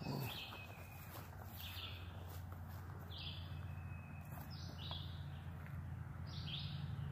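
A bird calling over and over, one short high call about every second and a half, over a steady low rumble.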